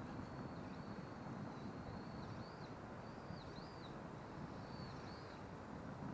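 A bird calling several times in short high, thin phrases that rise and fall, in three groups, over a steady low background noise.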